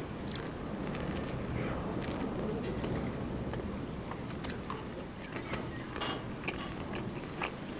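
Close-miked biting and chewing of a shawarma wrap, with scattered soft wet mouth clicks over a steady background hiss.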